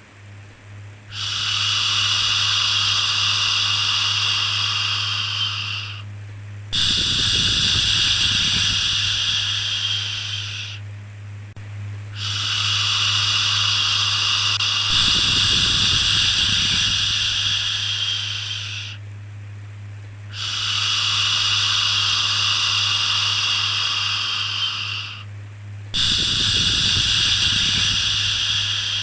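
Long 'shhh' shushing sounds for soothing a baby, repeated five times with short breaks of about a second between them, over a steady low hum.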